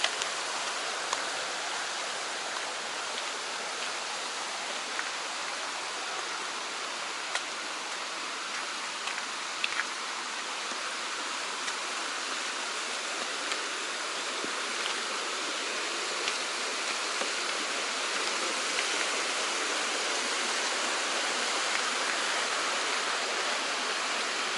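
Mountain stream flowing with a steady rushing sound, growing a little louder in the last third, with a few faint light ticks on top.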